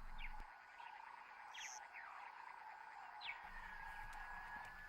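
Faint animal chorus, a steady drone with a few short chirps scattered through it.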